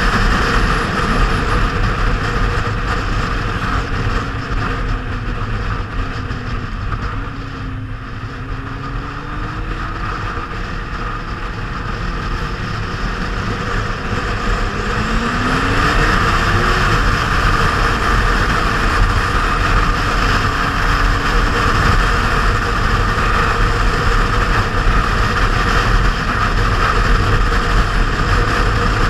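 Kawasaki Z750R's inline-four engine pulling along at speed under heavy wind rush on the microphone. The engine note drops for a few seconds about a third of the way in, then climbs again as the bike speeds up about halfway through and runs on steadily.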